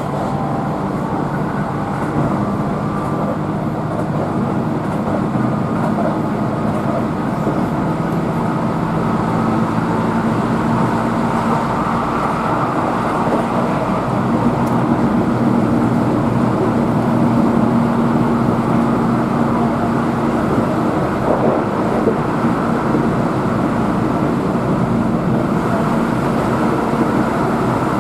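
Keihan electric train running at speed, heard inside the passenger car: a steady rumble of wheels on rails with a faint motor hum that swells slightly in the middle.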